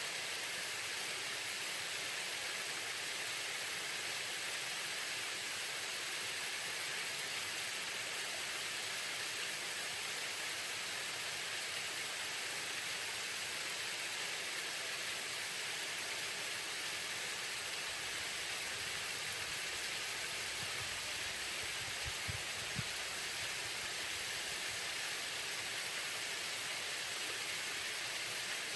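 Waterfall: falling water making a steady, even rushing hiss, with a few faint low thumps about three quarters of the way through.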